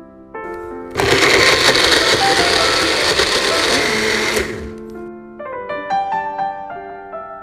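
Personal bullet-style blender running for about three and a half seconds, pureeing tomato, shallots and garlic into a smooth paste. It starts about a second in and cuts off suddenly.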